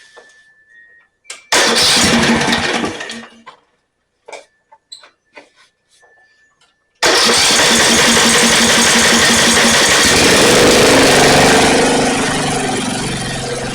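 Snapper riding mower's engine being started. A first try of about two seconds dies out, followed by a few clicks. About seven seconds in, it cranks again, catches, and keeps running steadily, easing down a little near the end.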